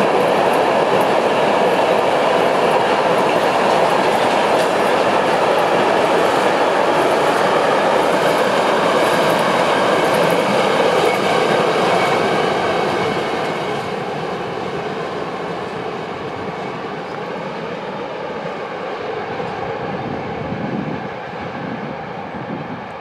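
Freight train of stake flat wagons, some loaded with steel, rolling past on the rails. The wheel noise holds loud until the last wagon goes by about halfway through, then fades away as the train moves off.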